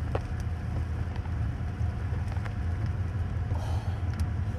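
Steady rain of a thunderstorm falling, with a low rumble underneath and scattered taps of drops.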